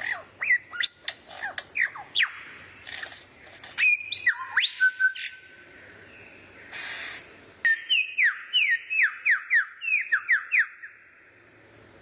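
Songbird singing: a varied run of quick whistled notes sweeping up and down, then a series of about ten fast downward-slurred whistles, roughly three a second, before it stops near the end.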